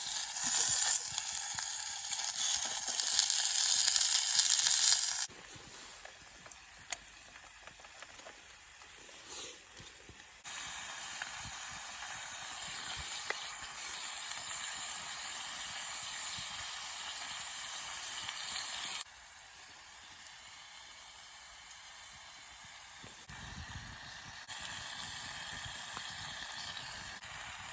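Campfire burning with a steady sizzling hiss and an occasional faint crackle. The hiss jumps abruptly between louder and quieter stretches several times.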